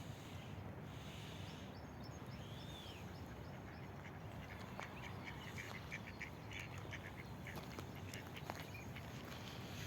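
Birds calling faintly over a steady low outdoor rumble, with a high arching call early on and a run of short, quick calls through the second half.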